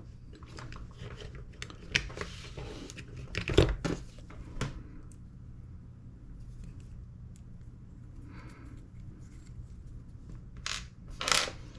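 Hands working small metal parts of an airsoft gas blowback bolt carrier: a scattering of clicks and scrapes, the loudest cluster about three and a half seconds in. Quieter handling follows, with a couple of sharper clicks near the end.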